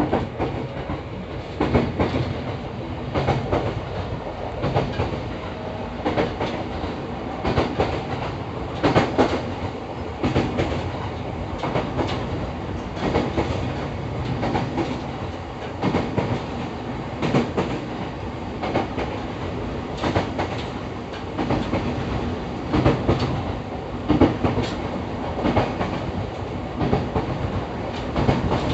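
EV-E301 series ACCUM battery electric train running along the line, heard from inside the car: a steady rumble of running gear, with the wheels clacking over rail joints every second or two.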